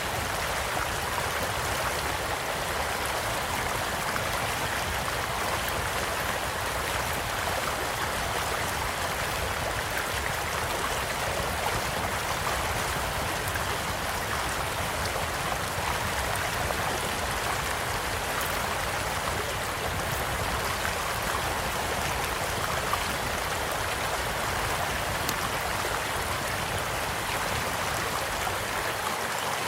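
A small stream flowing steadily, with occasional faint crackles and pops from a campfire beside it.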